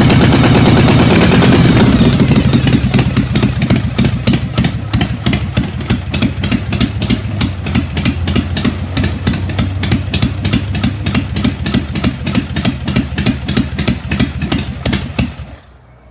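1956 Harley-Davidson Panhead V-twin, fitted with stroker pistons, running loud and falling from a rev to a pulsing idle over the first couple of seconds. It then idles steadily and shuts off near the end.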